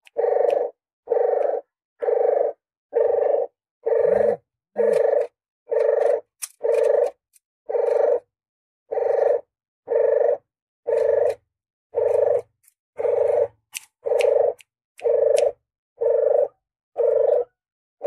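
Puter geni dove's lure call: a short cooing note repeated about once a second, each note steady in pitch with dead silence between, like a looped recording.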